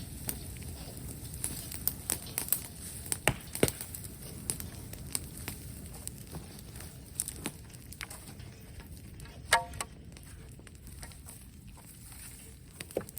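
Open bonfire of brushwood crackling, with a steady low rush of burning and many sharp pops and snaps, the loudest about nine and a half seconds in.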